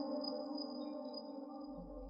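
A man's reciting voice dying away after a long held note at the end of a Quran verse: one steady pitch with its overtones, fading slowly into a reverberant tail.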